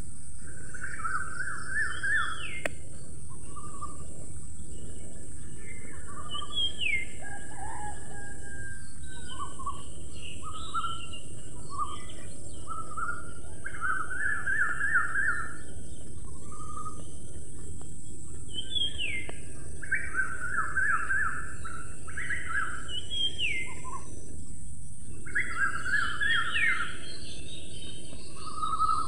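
Birds singing and calling: short rapid trills of chirps repeated every few seconds, mixed with rising and falling whistled notes, over a steady high hiss.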